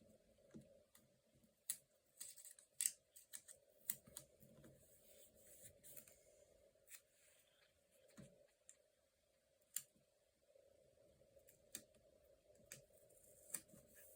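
Faint paper-crafting sounds: sticker book pages and sticker sheets handled, with scattered small sharp clicks and soft rustles.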